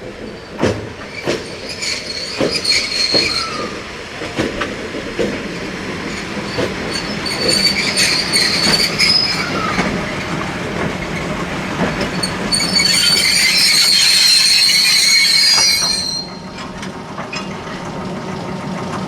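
Freight train's cement tank wagons rolling slowly, wheels clicking over rail joints and points with repeated high wheel squeal. The squeal is loudest and steadiest in the second half, then stops suddenly a few seconds before the end, leaving a steady low hum.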